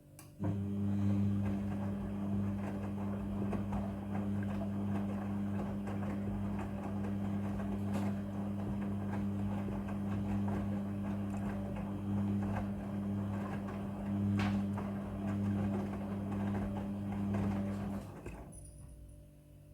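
Midea front-loading washing machine running mid-cycle: a steady hum over a rougher, uneven noise that starts suddenly about half a second in and dies away shortly before the end.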